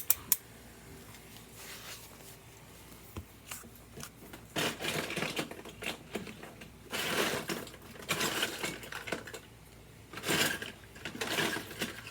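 Scraping and rattling of small toy kitchenware and utensils being handled, in several short spells.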